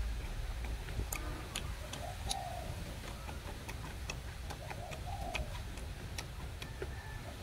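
Close-up eating sounds: wet chewing and irregular mouth clicks and smacks. In the background a bird coos, a short rising-and-falling call repeated about every three seconds.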